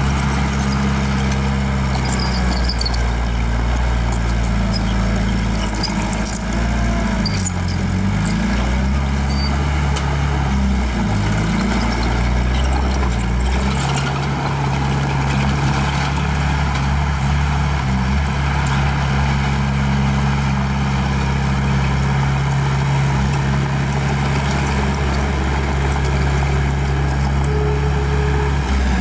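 Small bulldozer's diesel engine running steadily under load, its pitch dipping briefly twice as it lugs, with scattered clanks.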